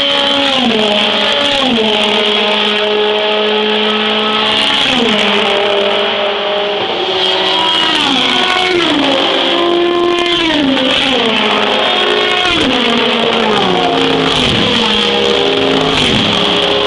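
A stream of sports-prototype and GT race cars passing at speed, their engines overlapping. Each engine note drops in pitch as the car goes by, several times in succession.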